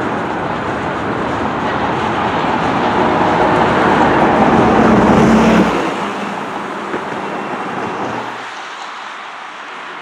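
Freight train of tank cars and a boxcar rolling past: a steady rush of steel wheels on rail, growing louder toward the middle, then dropping off noticeably about six seconds in and fading further near the end.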